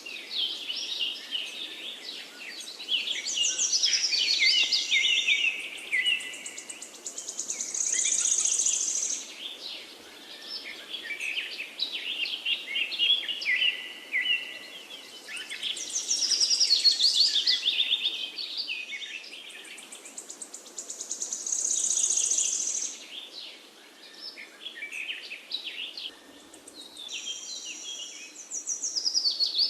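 Several songbirds singing and chirping over one another in a continuous dense chorus, with short high trills recurring every few seconds.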